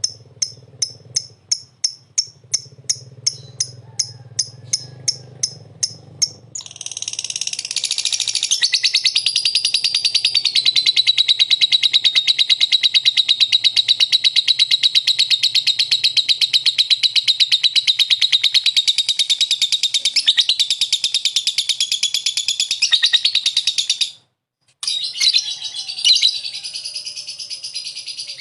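Lovebird song: a run of sharp, high chirps, about three a second, then a long unbroken rapid chatter, the drawn-out 'ngekek' that Indonesian keepers prize as 'gacor' singing. It breaks off briefly near the end and then starts again.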